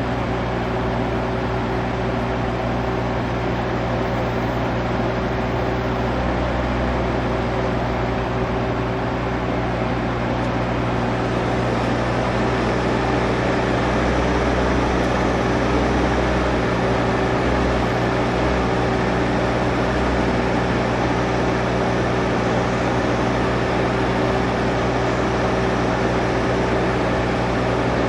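Stihl MS661 chainsaw running steadily under load, ripping a maple log lengthwise in a Logosol F2+ chainsaw mill, with the cutting noise a little louder from about halfway through.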